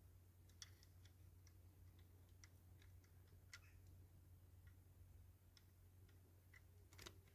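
Near silence with faint, irregular light clicks and taps of small diecast model-car parts being handled and fitted, over a low steady hum.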